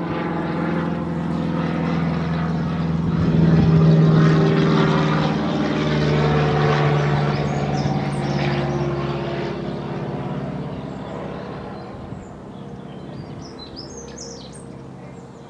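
Engine drone of a passing aircraft, loudest about four seconds in, dropping slightly in pitch and fading away over the next several seconds. A few small bird chirps come through near the end.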